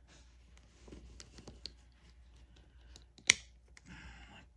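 Small plastic parts of a vintage 3-inch GI Joe action figure being handled during reassembly: light clicks and rustling, with one sharp loud click a little over three seconds in.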